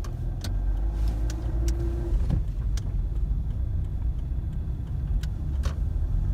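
Suzuki Swift being driven, heard from inside the cabin: a steady low engine and road rumble, a brief steady hum about half a second in, and a handful of sharp clicks scattered through.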